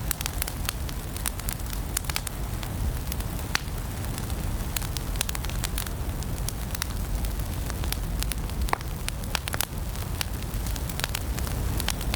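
Wood fire burning in a fireplace: a steady low rumble under frequent irregular sharp crackles and pops.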